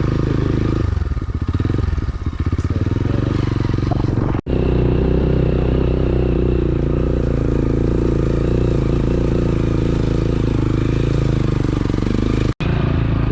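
Motorcycle engine running steadily while riding on the road, with a short unsteady patch in the first couple of seconds. The sound cuts out for an instant twice.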